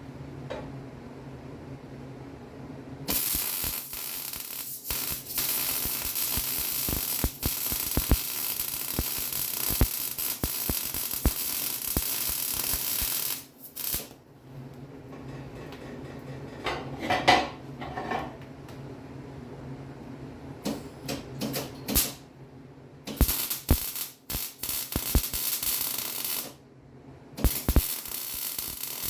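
Arc welding on a steel frame cross member: a long run of crackling, sputtering arc of about ten seconds, then shorter bursts near the end, with a low hum between runs.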